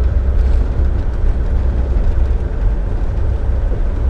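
Empty dump truck cruising at highway speed, heard from inside the cab: a steady low engine and road drone.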